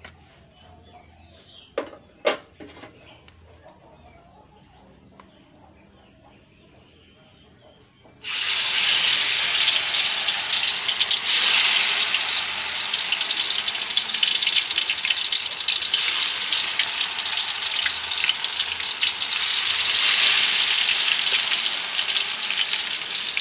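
Batter-coated tempe slices deep-frying in hot oil in a wok: a loud, steady sizzle starts suddenly about a third of the way in as the pieces go into the oil. Before it, a few quiet seconds with two sharp knocks.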